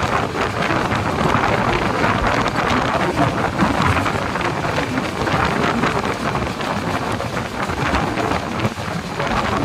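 Express train running at speed: a steady loud rush of wheels on rails with a dense, rapid clatter, and wind buffeting the microphone.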